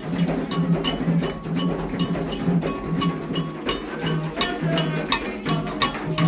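Ritual percussion music: hand drums and a metal bell struck in a steady rhythm of about three strokes a second, with voices singing from about four seconds in.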